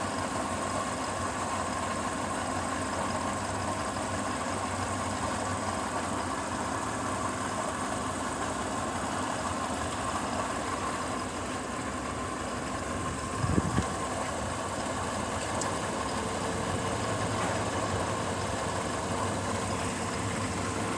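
Hyundai Matrix 1.6's four-cylinder petrol engine idling steadily, with one short thump about two-thirds of the way through.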